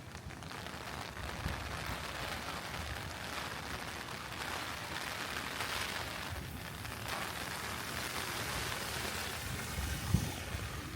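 Steady rain falling, a recorded rain track mixed over the walk, with a low rumble that swells about ten seconds in.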